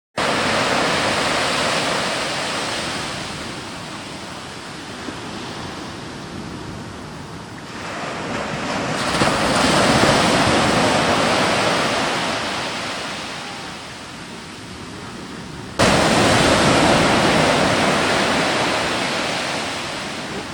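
Steady rushing outdoor noise with no words, swelling to a peak about ten seconds in and fading again, then jumping abruptly louder about sixteen seconds in.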